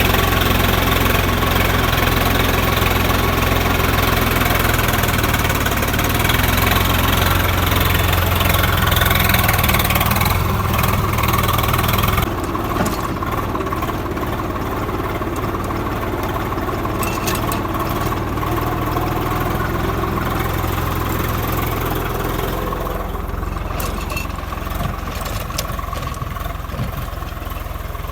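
Swaraj 855 tractor's three-cylinder diesel engine running steadily, strongest at the low end. About twelve seconds in, the sound drops a little and turns duller.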